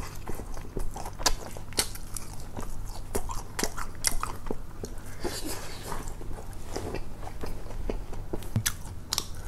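A man biting and chewing fried fast food (chicken nuggets and fries), with irregular crunches and wet mouth clicks.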